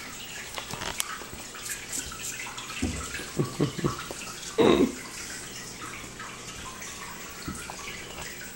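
Puppies moving about: scattered light clicks and a few soft thumps over a steady hiss, with one short louder sound a little before the middle.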